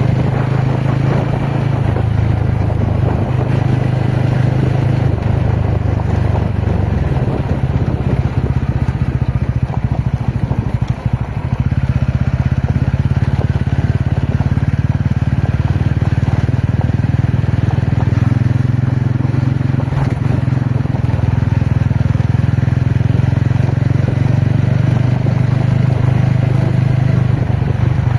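TVS Ronin motorcycle's single-cylinder engine running steadily while the bike is ridden off-road. About a third of the way through, the engine note changes and turns pulsing, then settles again.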